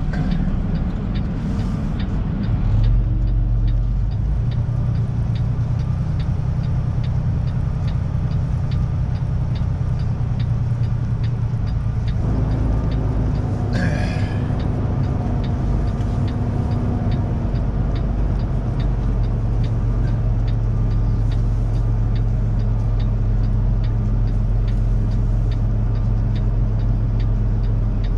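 Kenworth semi truck's diesel engine running at low speed while the truck is manoeuvred into a parking spot, a steady low drone that shifts in pitch a couple of times. A faint regular ticking runs under it, and a short hiss comes about halfway through.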